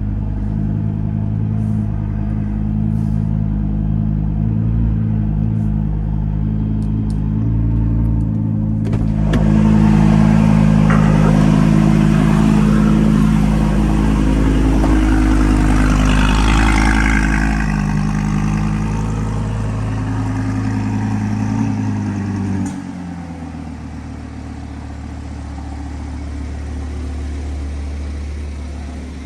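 The 5.2-litre V10 of a 2018 Audi R8 V10 Plus idles steadily at its raised cold-start speed, and a broad hiss joins about nine seconds in. About 23 seconds in, the idle drops to a lower, quieter speed as the cold-start fast idle settles.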